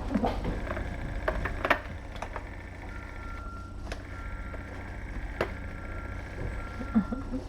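Room noise: a steady low hum and a faint high whine that drops out for a few seconds, with a handful of sharp clicks and knocks scattered through it.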